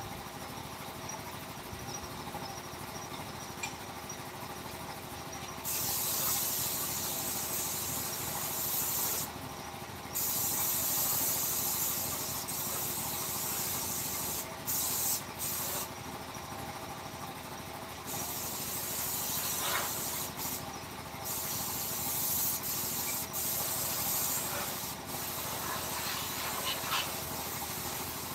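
Compressed-air gun hissing in repeated bursts that start and stop abruptly, after a few seconds of quieter workshop background.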